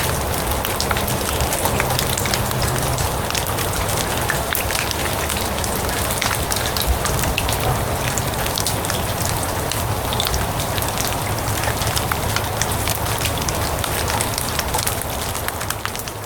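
Steady rain falling on grass, with many separate drops ticking through the even hiss, easing slightly in the last second.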